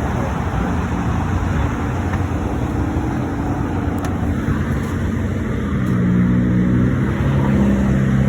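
A vehicle engine running amid highway traffic noise, its note rising and holding steady higher from about six seconds in.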